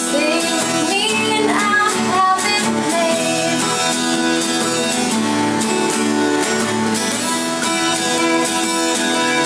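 Acoustic guitar music from a jam: strummed chords under a melody line that slides upward in pitch in the first couple of seconds.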